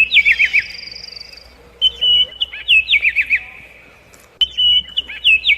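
A songbird singing the same short whistled phrase over and over, about every two and a half seconds: a held clear note followed by a quick run of falling notes. A fainter, higher thin note from another bird sounds in the first second or so.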